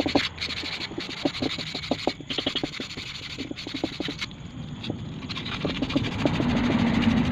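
Quick rubbing and scraping strokes on metal, typical of hand-polishing or sanding a motorcycle hub, for the first few seconds. After that it turns into a steadier rubbing with a low hum that grows louder near the end.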